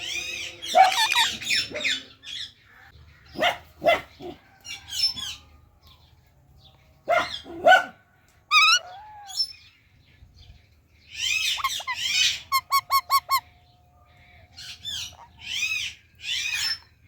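Indian ringneck parakeet calling: loud, harsh screeches in bursts with short pauses between them, and a quick run of about six short chirps about two-thirds of the way in.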